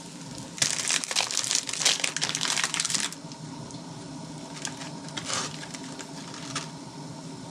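Plastic wrapping crinkling for about two and a half seconds, then a few light clicks and taps.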